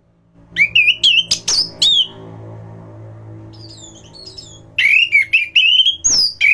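Anis ground thrush (Geokichla) singing: two loud bursts of quick whistled phrases with sharp up-and-down glides, the first starting about half a second in and the second near the end, with softer high twittering notes between them. A faint low hum sits underneath.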